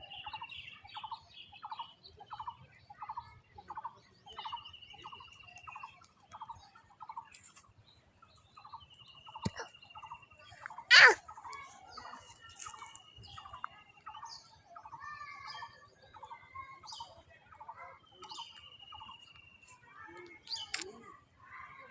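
Birds calling: a short call repeated about twice a second, and a buzzy trill held for a second or two that comes back every few seconds. A single sharp loud knock about halfway through.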